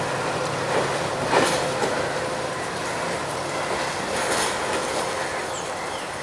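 Passenger train coaches rolling over the rails, with wheels clacking over rail joints, a louder clack about a second and a half in and another past the four-second mark, and a faint steady wheel whine. The sound eases off slowly as the train pulls away.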